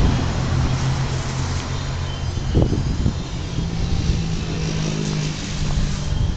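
An engine running steadily with a low hum, and a knock about two and a half seconds in.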